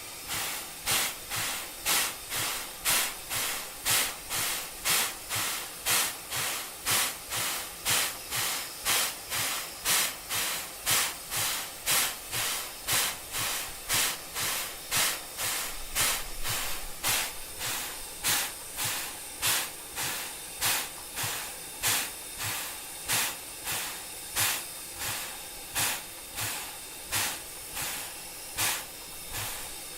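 Steam locomotive chuffing at a steady pace, about two hissing exhaust beats a second.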